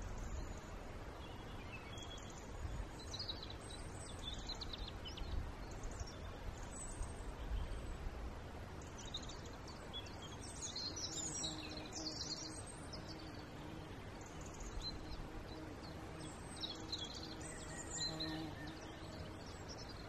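Small woodland birds calling in scattered short, high chirps, busiest about halfway through and again near the end, over a low steady background rumble.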